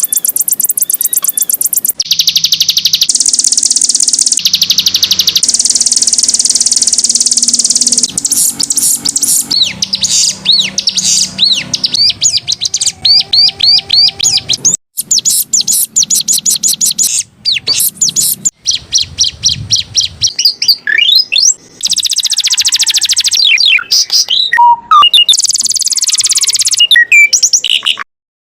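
Domestic canary singing a long, varied song of fast trills and rapid chirped phrases that change every second or two: a masteran tutor song for training other songbirds. It cuts off suddenly near the end.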